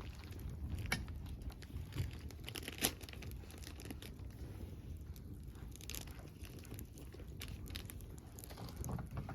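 Wood campfire crackling, with irregular sharp pops and snaps over a low steady rumble; the loudest snap comes about three seconds in.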